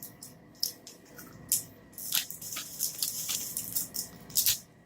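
Close-up chewing of a crisp-rice chocolate bar: small irregular crunches and wet mouth clicks, busiest around the middle.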